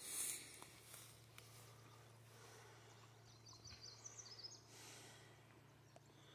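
Near silence of open pasture at dusk: faint outdoor ambience with a short run of high bird chirps about three seconds in.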